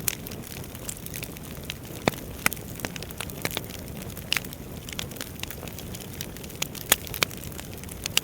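Wood fire burning in a fireplace: a steady low rumble of flames with irregular sharp crackles and pops from the burning logs, one louder pop about seven seconds in.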